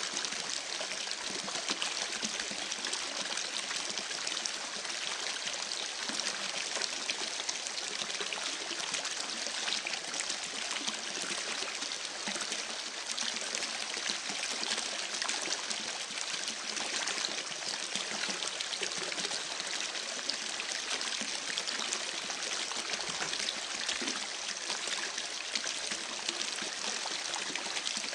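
A creek babbling steadily, with many small sharp crackles from a campfire mixed in.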